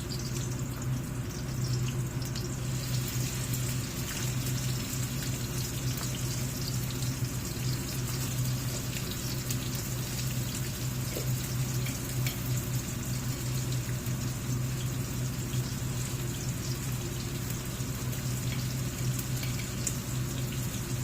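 Water running steadily, with a low steady hum underneath and a few small clicks.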